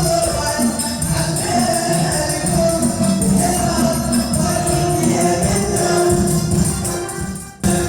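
Moroccan wedding music: a group of voices singing together over steady tambourine and hand-drum rhythm. The sound drops away for a moment just before the end, then comes straight back.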